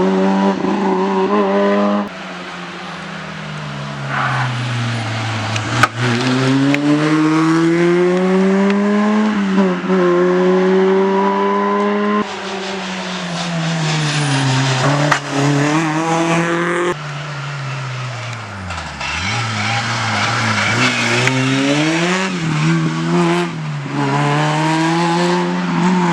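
Rally cars at full attack, engines revving hard and rising and falling in pitch through gear changes and braking, several passes one after another. A couple of sharp cracks stand out.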